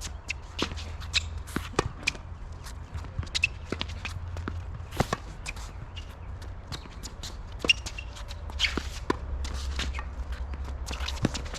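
Tennis play on a court: sharp, irregular knocks of a tennis ball bouncing and being struck by rackets, mixed with players' footsteps, over a steady low rumble.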